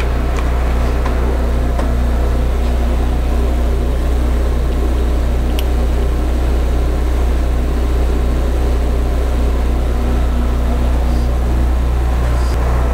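Steady, loud drone of shop machinery, a low hum with even overtones that does not change, with one small click about five and a half seconds in.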